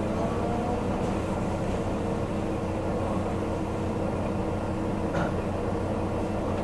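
Diesel railcar heard from inside the cabin, running slowly: a steady hum of several held tones over a low rumble, with a single short click about five seconds in.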